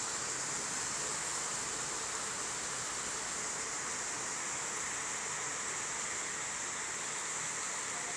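Rain falling steadily, a continuous even hiss with no thunder.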